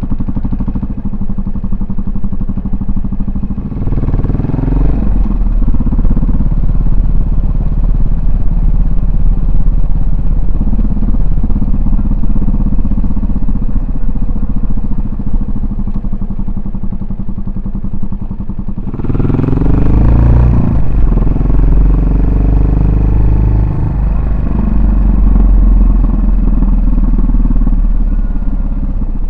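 Yamaha SR400's air-cooled single-cylinder engine and exhaust under way. It runs at low revs, then picks up with rising pitch about four seconds in and holds steady. It accelerates again about two-thirds of the way through and eases back near the end.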